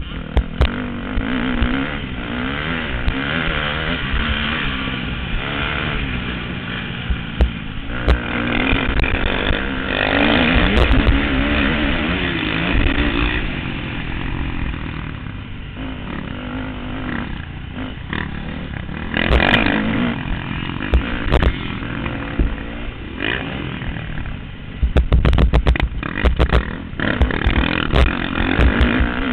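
Motocross bike engines revving and passing, their pitch rising and falling with the throttle and gear changes, with sharp clatter and a louder stretch near the end.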